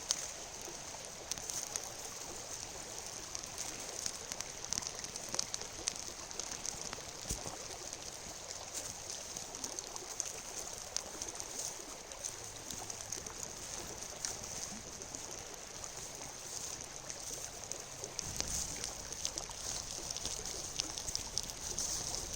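A river flowing steadily, swollen with recent rain, with scattered small clicks and ticks over it.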